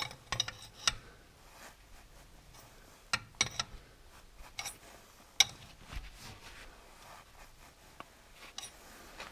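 Irregular sharp metallic clicks and clinks, in a few short clusters, from a homemade cylinder-liner puller, a long threaded rod and nut, being set and worked against the engine block.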